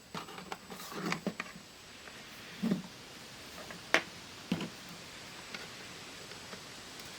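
Small clicks and knocks of hands and tools handling an 8-track tape cartridge: a few soft taps in the first second and a half, a low knock, then one sharp click about four seconds in and another knock just after.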